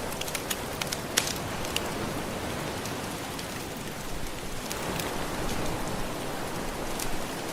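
Gentle ocean waves making a steady wash, with a wood fire crackling over it. Scattered sharp pops stand out, the loudest about a second in.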